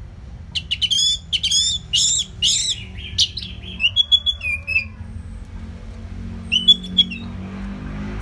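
Orange-headed thrush singing: a fast run of sharp whistled phrases for the first few seconds, then a pause and a short burst of notes near the end.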